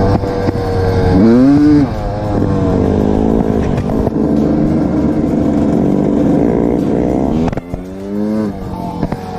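Motorcycle engine running, with two quick blips of the throttle that send the revs sharply up and back down: one about a second in, one near the end.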